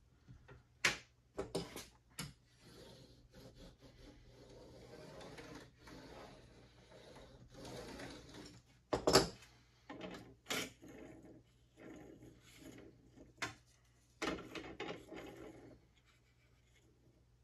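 Workshop handling of wooden arrow shafts and hand tools: scattered sharp knocks and clicks, the loudest about nine seconds in, between stretches of light rubbing or scraping.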